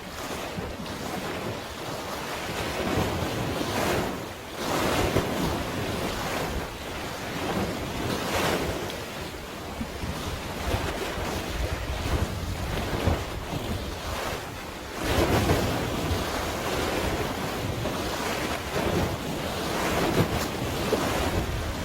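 Wind buffeting the microphone over the wash of sea waves, rising and falling in gusts.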